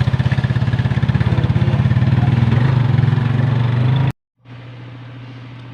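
A small vehicle engine running with a fast, even pulse, cut off abruptly about four seconds in. After a short silence a quieter steady engine hum follows.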